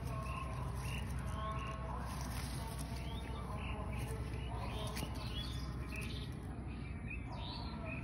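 Small birds chirping again and again in the background, short high chirps every half second or so, over a steady low rumble.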